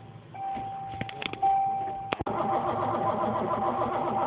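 A 1986 Ford Mustang 5.0's V8 being cranked by the starter during a jump-start attempt, without catching. The starter engages with a click about two seconds in, and the cranking runs even and loud after it. A steady high warning tone sounds throughout.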